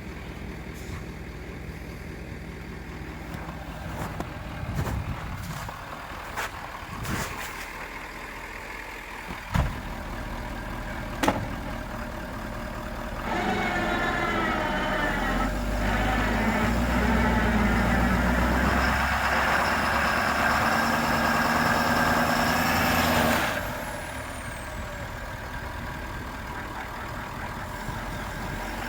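Stuck pickup truck's engine running at idle with a few sharp knocks, then, about halfway, revving hard for about ten seconds as it strains in reverse against the winch line to get out of the ditch, and cutting off suddenly.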